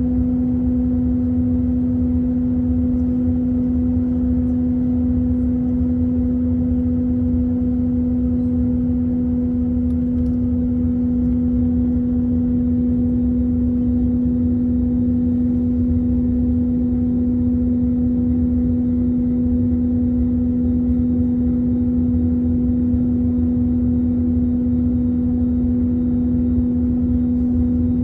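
Steady Airbus A321 cabin noise in flight: a low rumble of engines and airflow with a constant hum, unchanging throughout.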